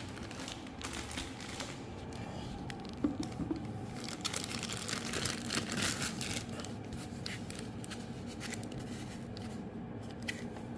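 Packaging from a headlight restoration kit crinkling and rustling as its contents are handled, with scattered small clicks and taps.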